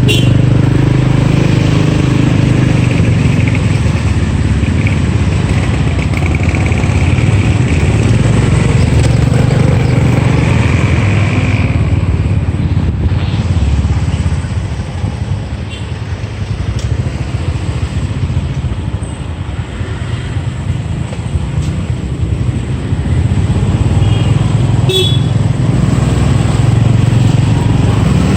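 Motorcycle engine running while riding through city traffic, with road and wind noise. The engine eases off for several seconds about halfway through, then picks up again. Near the end there is one brief, sharp high sound.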